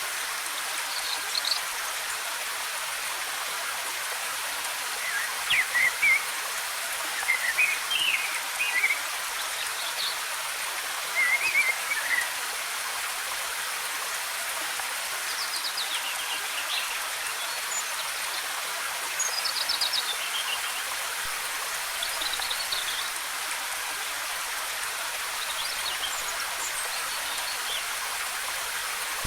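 Steady rush of falling water from a waterfall, with songbirds chirping in short bursts of quick notes every few seconds over it.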